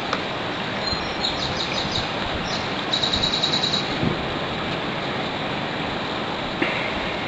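A small bird sings a run of quick, high chirps, fastest about three seconds in, over a steady rush of wind noise.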